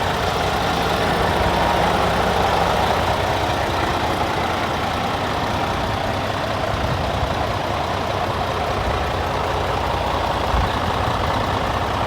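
Diesel engine of a Scania P360 8x4 tipper truck running steadily, swelling slightly early on, with one brief low thump near the end.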